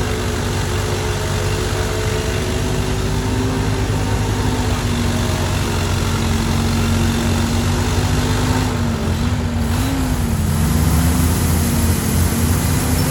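Antique tractor engine running hard under load while pulling the weight sled down the track. Its pitch holds steady, wavers about nine to ten seconds in, and the sound grows a little louder toward the end.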